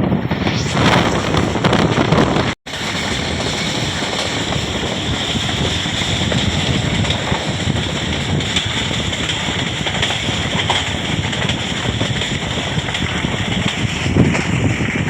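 Passenger train running along, heard from on board with wind buffeting the microphone: a steady rushing noise that drops out for a split second about two and a half seconds in.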